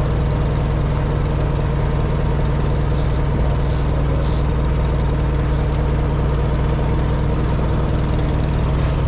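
Heavy truck diesel engine idling steadily, with a few brief faint hisses in the middle and near the end.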